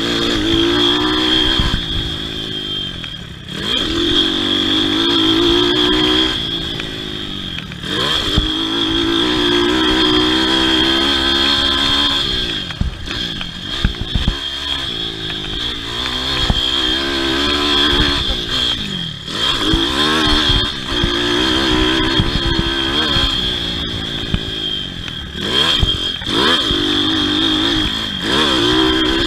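Pit bike engine racing around a motocross track, revving up and dropping off repeatedly every few seconds as the throttle is opened and shut through the jumps and corners.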